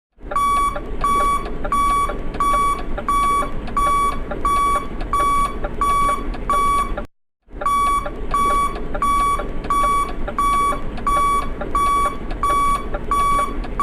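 Electronic beeper sounding a steady run of short, identical high beeps, about three every two seconds, over steady background noise. The beeping breaks off briefly about seven seconds in, then starts again at the same pace.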